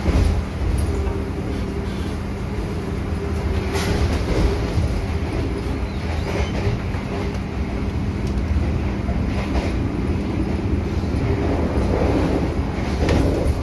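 Steady rumble and hum of the Argo Bromo Anggrek passenger train running, heard from inside its restaurant car, with a few light clicks and knocks.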